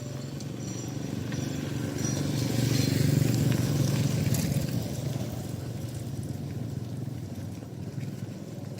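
A motor vehicle's engine running as it passes, growing louder to about three seconds in and then fading.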